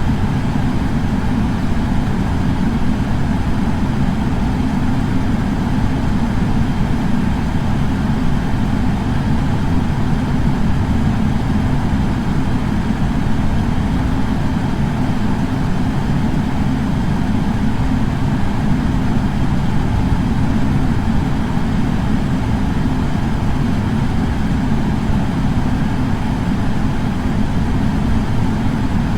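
Air purifier fan running steadily: an even rush of air, heaviest and loudest in the bass, with faint steady hum tones above it.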